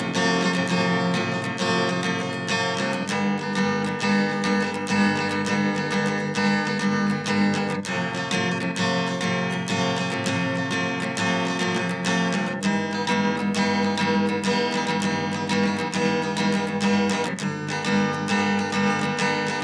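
Background music: acoustic guitar strumming and picking, with the chord changing every few seconds.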